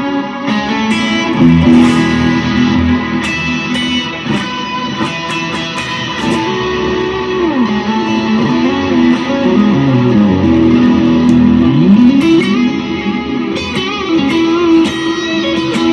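Electric guitar played through a pedalboard into studio monitors: a lead line of held notes, with notes sliding up and down in pitch.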